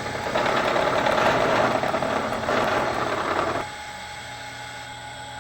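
Bridgeport milling machine taking a light cleanup cut on a metal part: a harsh cutting noise for about three seconds with a short dip midway, stopping suddenly, over the steady hum of the running machine.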